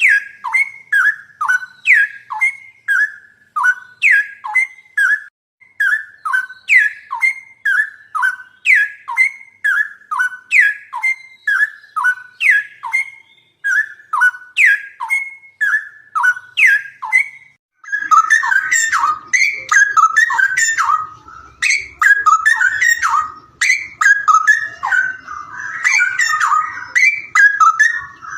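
A bird singing a repeated phrase of short, clear whistled notes, each falling in pitch, about two a second. About eighteen seconds in it gives way to denser, jumbled chirping with a faint low rumble underneath.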